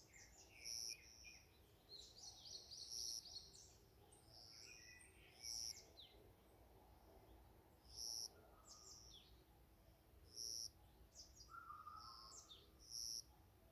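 Several wild birds singing in a forest dawn chorus, faint: one bird repeats a short high call about every two and a half seconds while others chirp and trill in between.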